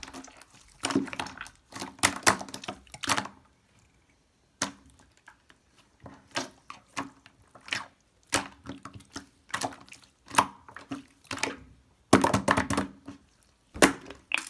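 Slime being squeezed and pressed by hand, giving irregular clusters of sticky clicks and pops with short pauses between them.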